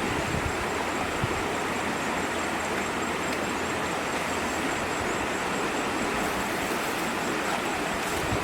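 A steady, even rushing noise that holds at one level throughout, with a faint thin high tone running under it.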